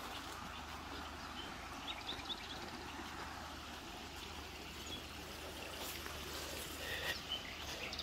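Birds chirping now and then in short, high notes over a steady outdoor hiss.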